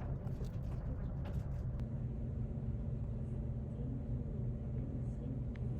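A steady low rumble with a faint wavering hum over it; about two seconds in, the higher hiss drops away.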